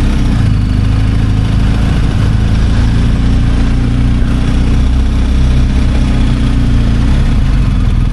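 Motorcycle engine running at a steady speed, a low even drone with a haze of road and wind noise over it.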